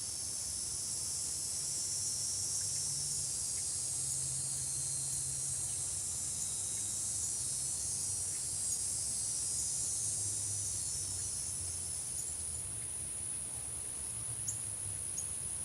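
Outdoor insect chorus: a steady, high-pitched, unbroken trill, its lower part thinning after about twelve seconds, with a faint low hum underneath and a couple of faint short chirps near the end.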